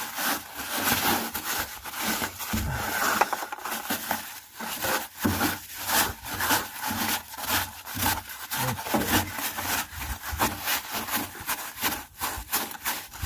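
Rag wiping and scrubbing around the fuel pump opening on top of the fuel tank, in quick, irregular rubbing strokes, cleaning off road salt before the pump comes out.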